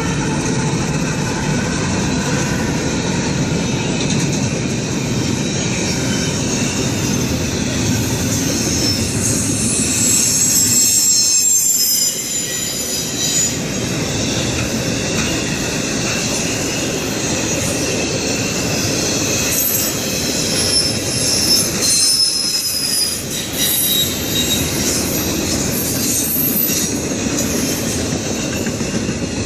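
Norfolk Southern double-stack container freight train rolling past, its wheels rumbling on the rails. High-pitched wheel squeal rises over the rumble around the middle and again later.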